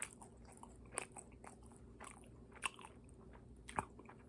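Close-up chewing of crispy-battered Korean fried chicken, with faint crunching and a few sharp crackles, the loudest about a second in, near the middle and near the end.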